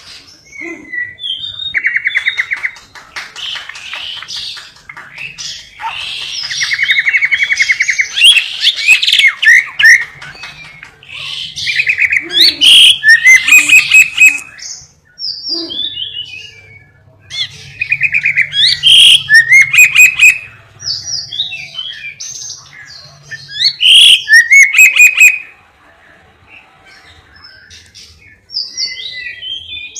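Lovebird singing loudly in phrases of several seconds, with rapid buzzing trills and chirps learned from canary song, separated by short pauses.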